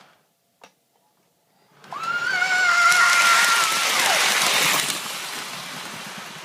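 A single click, then a toy train's electronic sound effect about two seconds in: a steady whistle tone with a rush of steam-like hiss under it. The tone slides down and stops, and the hiss fades out slowly.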